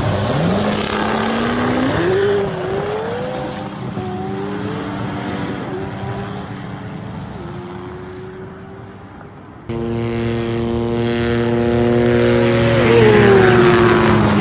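A McLaren Senna's twin-turbo V8 accelerating hard, its pitch climbing and dropping back in steps through the gear changes, over the steady drone of a helicopter. About ten seconds in a cut brings a louder take, where the car's tone rises and then falls away near the end.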